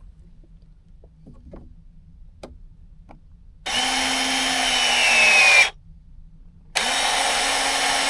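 Power drill running in two bursts of about two seconds each, with a short pause between; its pitch sags a little during the first burst.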